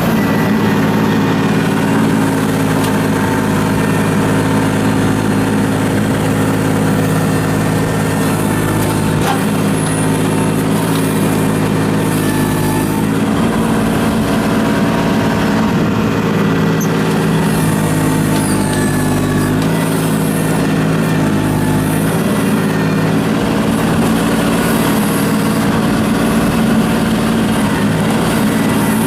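Kubota L39 tractor's diesel engine running steadily at a constant speed, its pitch dipping slightly a couple of times.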